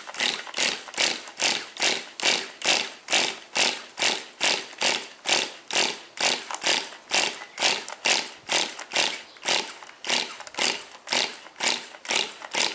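Small nitro engine of a 1/10 Tamiya TGS RC car being turned over again and again with the glow plug removed, a rasping stroke a little more than twice a second. It is being cycled to work fuel through so the piston does not stick.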